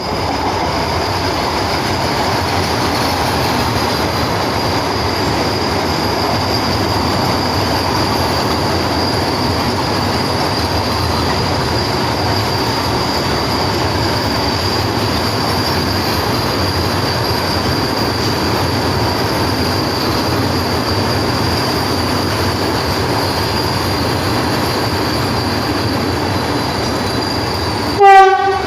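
Vande Bharat Express train running, with a steady rolling rumble and a thin, steady high-pitched tone. Near the end a loud train horn starts abruptly.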